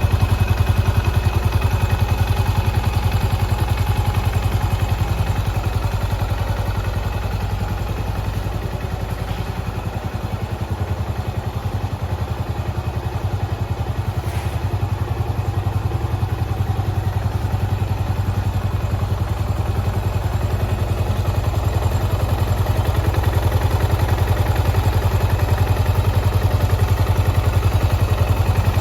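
Yamaha SR400's air-cooled single-cylinder four-stroke engine idling with a steady, even beat. It dips slightly in loudness about a third of the way through.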